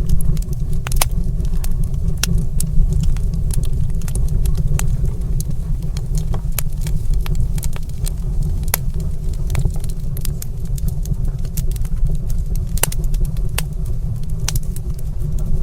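Fire crackling in a stone fireplace: irregular sharp pops and snaps over a steady low rumble.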